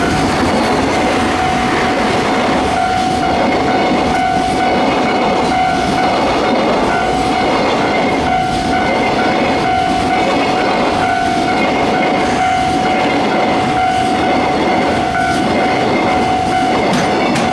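Long freight train of Koki container flatcars rolling past at speed, wheels clattering over the rail joints in a steady repeating rhythm under a continuous rumble, with a steady ringing tone from the wheels and rails.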